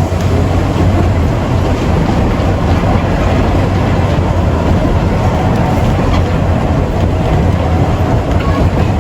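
Electric tram running along its rails: a steady, loud low rumble of the car and wheels, with faint scattered clicks.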